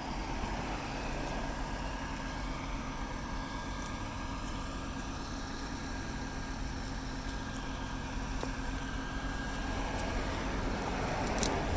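Car engine idling steadily, a low even hum, with a few faint ticks.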